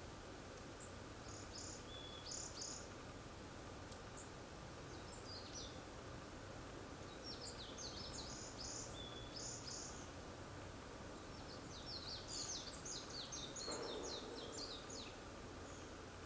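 Long-tailed tits calling: thin, very high-pitched notes in quick short series, coming in three bouts, the busiest and loudest a little after the middle, over a steady faint background noise.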